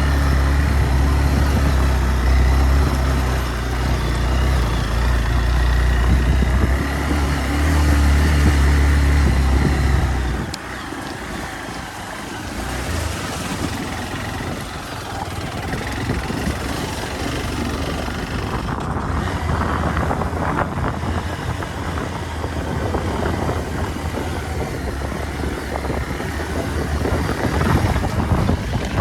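Motorcycle engine running with a steady low note that stops abruptly about ten seconds in; after that a rougher, hissing noise continues.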